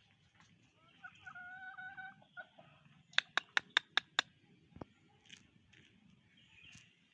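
An animal call held on one steady pitch for about a second and a half, then a quick run of six sharp clicks, about five a second.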